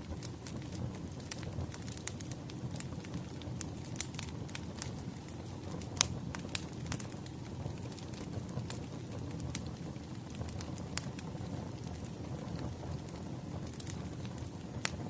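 Burning firewood crackling: a steady low rush of flames with scattered sharp pops at irregular intervals, the loudest about six seconds in.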